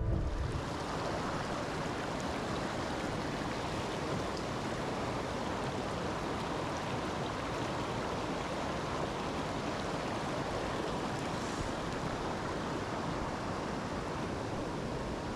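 Mountain stream water rushing in a steady, even flow.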